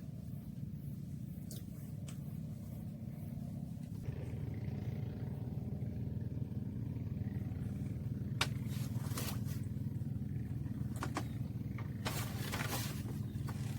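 An engine running steadily nearby, getting louder about four seconds in, with a few short sharp clicks over it in the second half.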